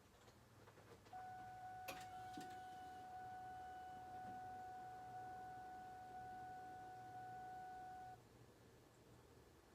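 Faint clicks from inside the car, then a single steady high-pitched electrical tone lasting about seven seconds, as the ignition is switched on to prime the fuel pump before a first start. The engine is not running.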